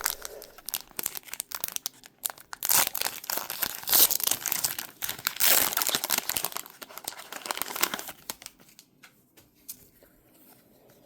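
Foil Pokémon booster pack wrappers crinkling and tearing as packs are ripped open, a dense crackle for about eight seconds that then drops to faint, scattered rustles.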